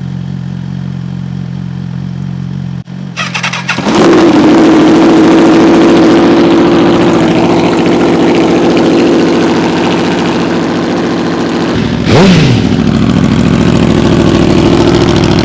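Straight-piped Aprilia RSV4's V4 engine running through its exhaust, very loud and steady. About three seconds in it jumps much louder, as if heard close to the pipe, and a brief swing in pitch comes about twelve seconds in.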